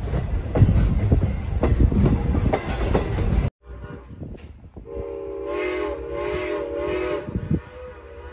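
Passenger train running, a loud rumble of wheels on the rails that cuts off suddenly about three and a half seconds in. Then, quieter, the steam locomotive's whistle sounds for about two and a half seconds, a steady multi-note tone with a few rushing puffs over it.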